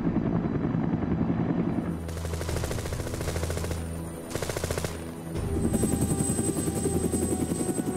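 Rapid, even run of sharp bangs like automatic gunfire, over a steady low music drone.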